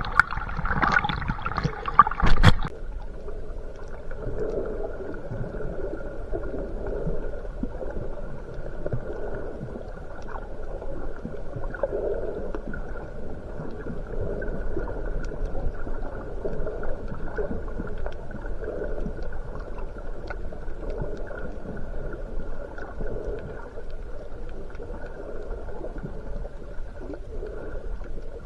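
Underwater sound through a camera: a loud splashing churn in the first couple of seconds, then a steady muffled wash of wave surge with slow recurring swells.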